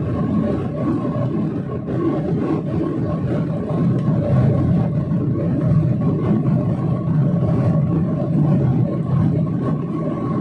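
Airliner engine noise: a steady low roar with a constant whine above it, holding level without rising or falling.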